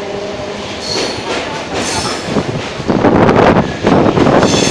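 Suburban electric local train heard from its open doorway as it pulls out: wheels squealing in short high-pitched spells about one and two seconds in and again near the end. From about three seconds in the train's noise turns suddenly loud and rushing.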